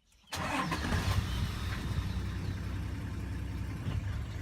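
Vehicle engine idling steadily, a low hum that starts about a third of a second in.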